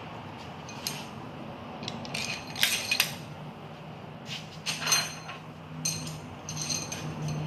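Small steel parts clinking against each other and on the engine's metal housings, several separate light clinks with a short metallic ring, during a Mazda 13B rotary engine's assembly as lubed bolts and washers are fitted. A low steady hum comes up about five seconds in.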